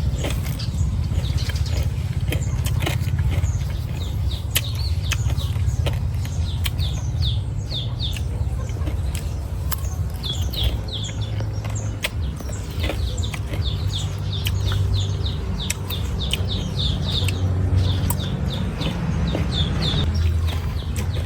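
Small birds chirping in quick runs of short, high, falling notes, over a steady low rumble, with scattered sharp clicks.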